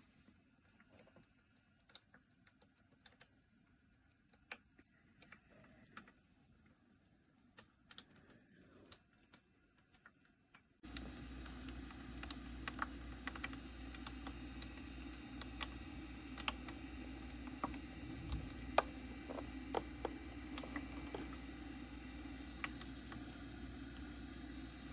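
Faint scattered light ticks, then about eleven seconds in a Vicks ultrasonic cool mist humidifier comes on. Its motor gives a low steady hum with a faint high-pitched tone, and the small ticks carry on over it.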